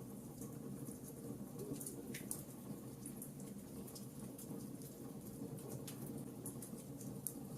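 Wood fire burning with a steady low rumble and frequent small, irregular crackles and pops.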